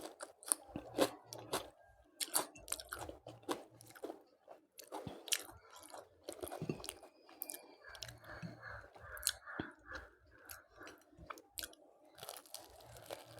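Close-up chewing and biting of crunchy food, with irregular sharp crunches several times a second.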